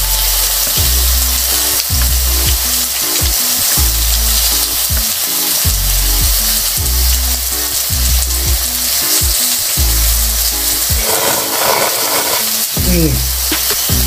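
Steady sizzling of food frying in a hot pan, under background music with a bass note about once a second.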